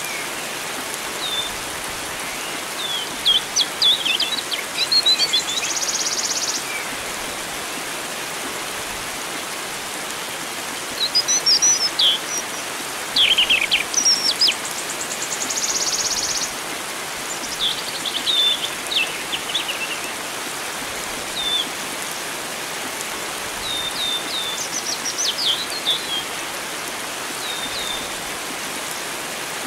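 Wild songbirds calling in short whistled phrases and chirps, with two longer buzzy trills, over a steady hiss of flowing water.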